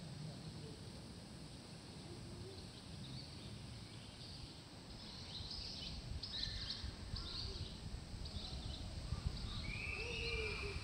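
Birds chirping in short repeated calls over a steady low background rumble, growing busier about halfway through, with a louder held call near the end.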